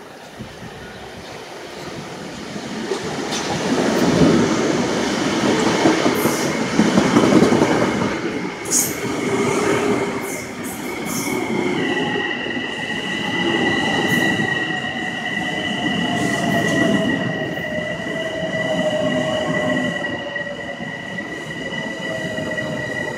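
A train running into the station: the rumble of its wheels and cars builds loudly over the first few seconds. About halfway through a steady high-pitched squeal sets in, joined by a whine that slowly falls in pitch as the train slows.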